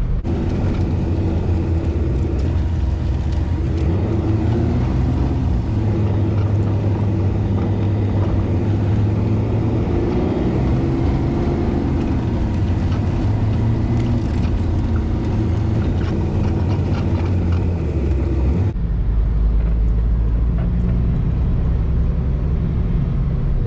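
Semi truck's diesel engine running at low speed while the truck maneuvers, its pitch rising and falling as engine speed changes. The sound changes abruptly about three-quarters of the way through.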